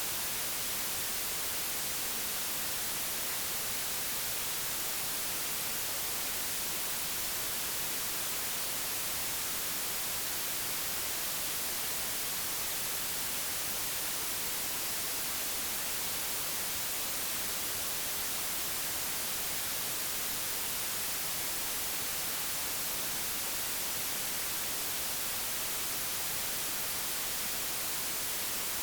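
Digitally generated white noise: a steady, even hiss with no change or events, strongest in the high frequencies.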